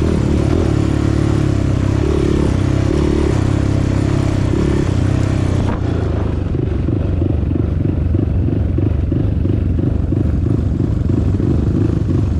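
Trail motorcycle engine running loud and close. About halfway through, the high rushing noise cuts away and the engine settles into a lumpy, pulsing idle.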